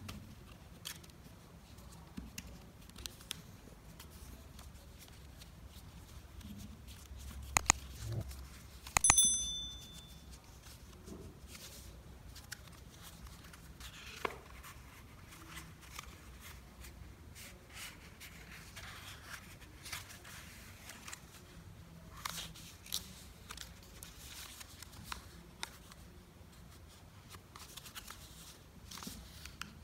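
Sheet of paper being handled and folded by hand: soft rustles, crinkles and light taps of creasing. About eight to nine seconds in come a couple of sharp clicks, the loudest sounds, followed by a brief high ping.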